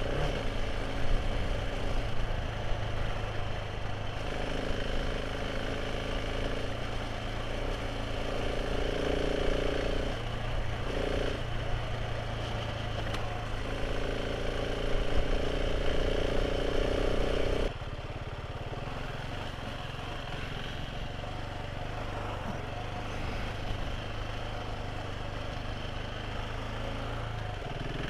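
Motorcycle engine running steadily under way, with road and wind noise. About two-thirds of the way through the level drops suddenly and the engine's higher tones fall away, as when the throttle is eased off.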